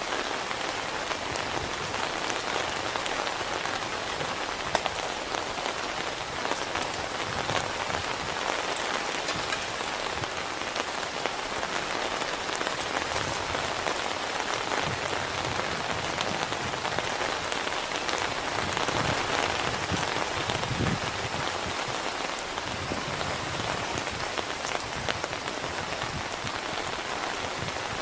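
Heavy rain falling steadily on a surface: a dense hiss made of countless small drop patters, getting a little louder about two-thirds of the way through.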